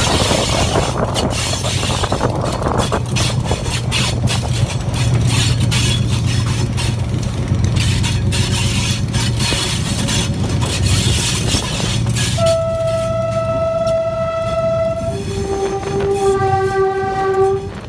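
A Pakistan Railways RGE-20 diesel-electric locomotive hauling a passenger train, with the wheels clattering over the track above a low engine drone. About twelve seconds in, the locomotive's horn sounds two long notes, the second lower than the first.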